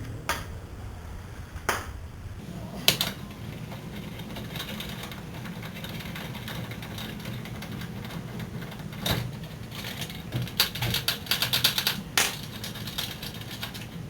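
Socket ratchet clicking while a brake caliper bolt is worked loose: a few separate clicks, then a quick run of ratchet clicks near the end, over a steady low hum.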